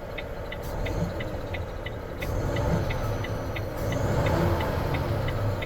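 Volvo FH 500 truck's 13-litre six-cylinder diesel engine running, getting louder about two seconds in and again near four seconds. A fast, even ticking of about six ticks a second runs along with it, and three short bursts of hiss come through.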